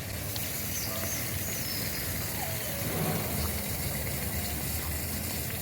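Steady outdoor background noise with a low rumble, like distant traffic, with a few faint high chirps over it.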